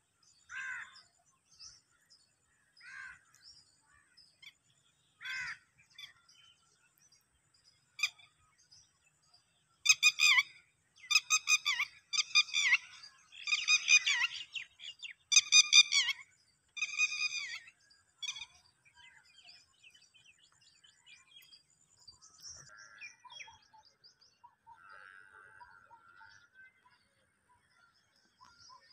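Wild birds calling. A few single calls come in the first six seconds. From about ten seconds in, a run of loud, harsh, repeated calls lasts some seven seconds, followed by softer chirping and chatter.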